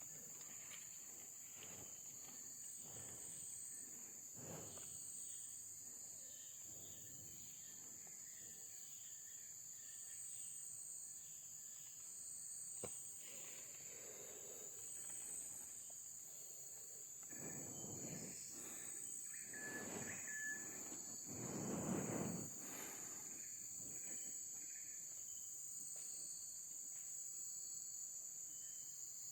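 Insects chirring outdoors in a faint, steady, high-pitched drone. Between about 17 and 23 s a few soft, broad rustling swells rise over it.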